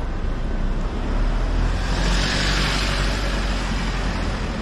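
A car passing by on a city street: its tyre and engine noise swells to its loudest about two to three seconds in and then fades, over a steady low traffic rumble.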